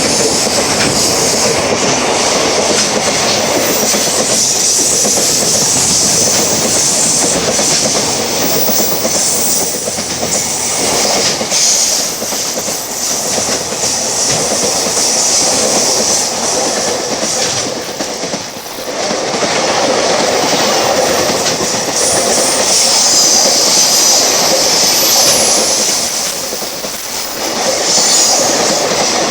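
Freight train rolling past, its wheels clattering over the rail joints with a continuous rumble and a high wheel squeal.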